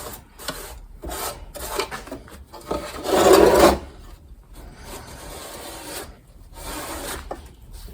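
Rubbing and scrubbing strokes of cleaning a kerosene heater's metal body, irregular, with one longer, louder stroke about three seconds in.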